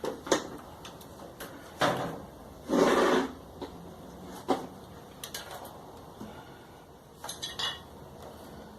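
Knocks and clicks from a Brastemp tumble dryer being handled as its test run after a friction-ring replacement is set going. There is a short scrape about two seconds in, a louder one about three seconds in, and more clicks near the end.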